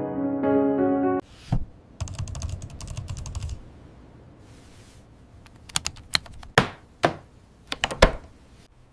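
Soft piano music cuts off about a second in, followed by a thump and then typing on a laptop keyboard: a quick run of keystrokes, then a few separate, louder key taps near the end.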